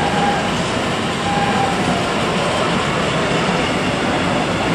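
Freight train of empty flat wagons rolling past close by: a steady wheel-on-rail rumble and rattle, with faint wavering wheel squeal over it.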